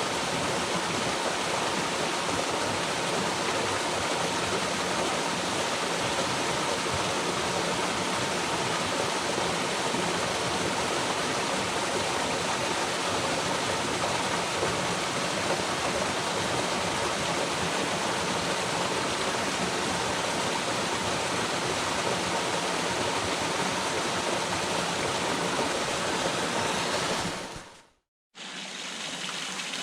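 Waterfall water rushing steadily. Near the end it fades out to a moment of silence, then a slightly quieter water sound cuts back in.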